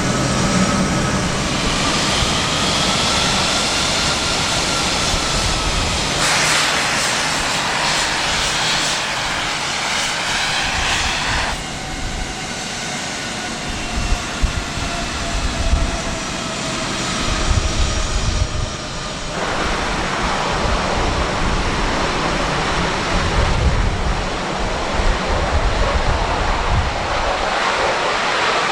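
Jet aircraft engines running, a steady roar with a high turbine whine whose tones drift slowly in pitch. The sound changes abruptly three times.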